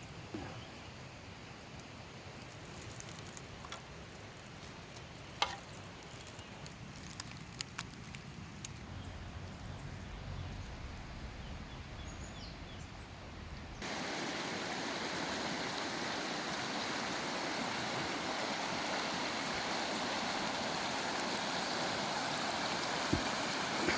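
Faint scattered clicks and taps, then an abrupt switch about 14 seconds in to the steady, louder rush of a flowing stream.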